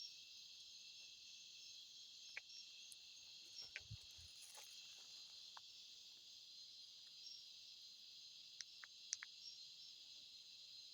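Steady, faint, high-pitched chorus of night insects such as crickets, with a few soft clicks and a brief low thump about four seconds in.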